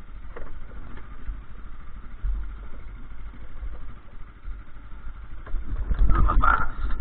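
Motorcycle engine running steadily, with a louder stretch of rattling and clatter about six seconds in.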